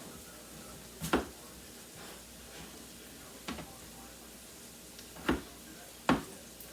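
Kitchen knife knocking on a cutting board while potatoes are cut, four sharp, irregular strikes, the last two the loudest, over a faint steady hiss of onions sizzling in a pan.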